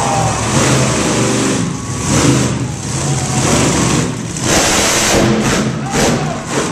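Monster truck engine revving, its pitch and loudness surging and dropping back several times.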